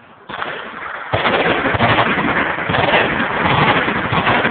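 Machine guns firing: a short burst begins sharply near the start, then from about a second in comes heavy, continuous automatic fire with the shots running together.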